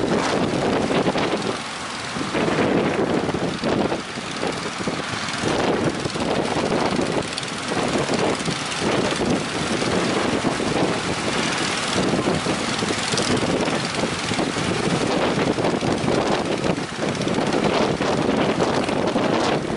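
Strong wind buffeting the microphone over the drone of boat engines, rising and falling in gusts.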